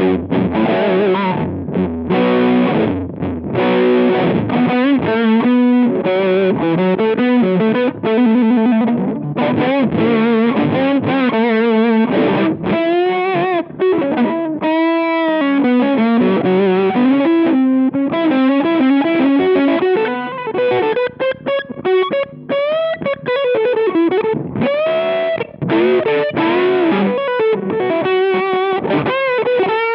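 Electric guitar played through a Rowin LEF-606 fuzz pedal: fuzzy, distorted riffs and single-note lines with string bends and vibrato.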